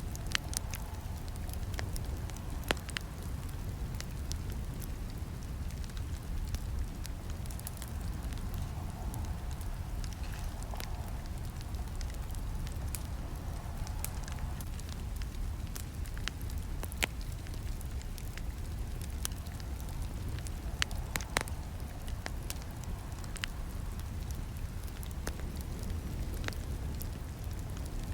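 Campfire crackling: irregular sharp pops and snaps of burning wood, a few louder ones standing out, over a steady low rumble of the flames.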